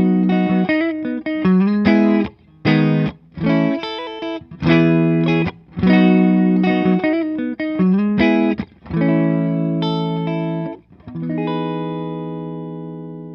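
Electric guitar played clean through a miked tube amp: a rhythm of strummed chords with short breaks between them, ending on a chord left to ring out and fade near the end.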